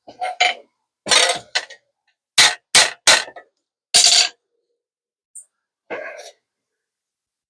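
A run of short, sharp metal knocks, about nine in all at irregular spacing, the loudest in the first few seconds. These are typical of sheet-metal work on a panel.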